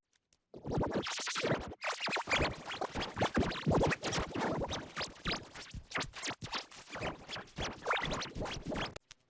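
Digitally chopped, stuttering audio with scratch-like pitch sweeps: a cartoon soundtrack cut into rapid fragments by an editing effect. It starts after about half a second of silence.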